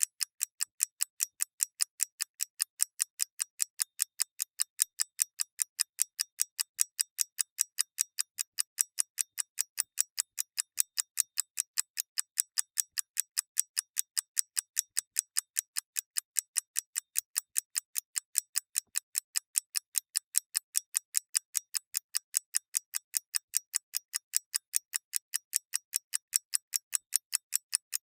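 Clockwork ticking: a fast, perfectly even run of crisp, high-pitched ticks, several a second, alternating slightly stronger and weaker like a tick-tock.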